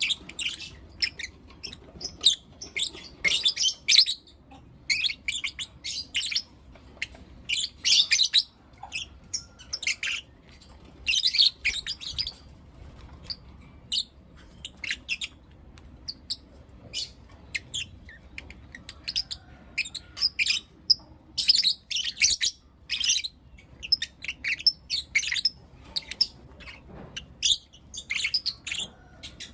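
Pet lovebirds chirping: many short, shrill, high-pitched calls in quick clusters, with brief pauses between bouts.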